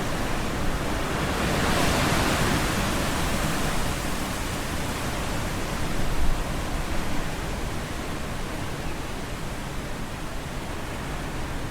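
Strong gusting wind, a steady rushing noise that swells about two seconds in and then eases slightly.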